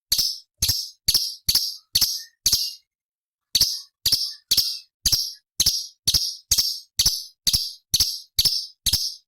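Cucak cungkok leafbird giving a run of short, harsh rasping calls, about two a second, with a pause of about a second roughly three seconds in.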